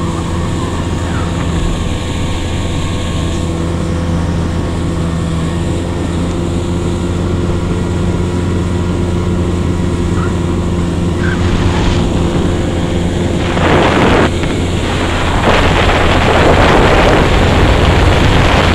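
40 hp outboard motor running steadily as the motorboat cruises. Rushing water and wind on the microphone, with louder surges of noise over the engine in the last five seconds.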